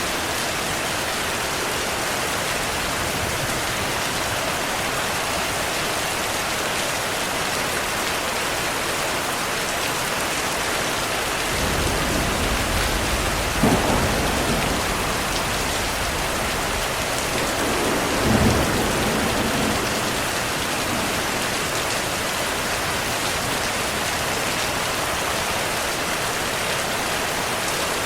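Steady heavy rainfall with thunder: a low rumble builds about halfway through, with two sharp cracks a few seconds apart, then rolls away back to rain alone.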